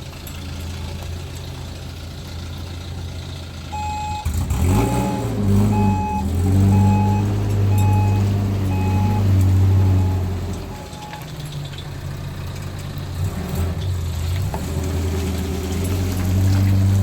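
Motor vehicle engine running, revving up about four seconds in and then pulling steadily. A single-pitched electronic beep repeats about twice a second alongside it for several seconds before stopping.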